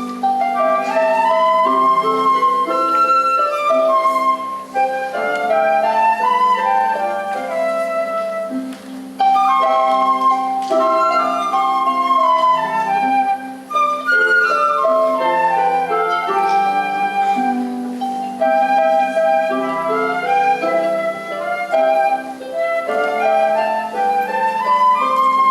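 Upper primary school band playing a piece, with a melody in phrases that rise and fall over a sustained lower line.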